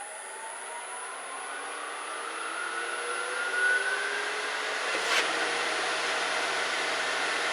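Grizzly variable-speed wood lathe spinning up, its motor whine rising steadily in pitch for about four seconds as the speed is turned up toward 1,000 RPM. A sharp click comes about five seconds in, then a steady running hiss.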